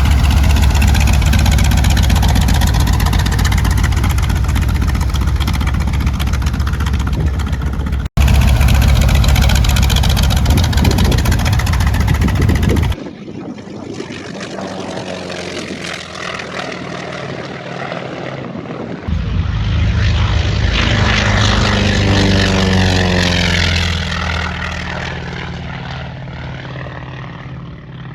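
Propeller-driven light aircraft engines in several cut-together clips: a loud, close engine running at first, then quieter, then an aircraft passing with its pitch falling about three quarters of the way through.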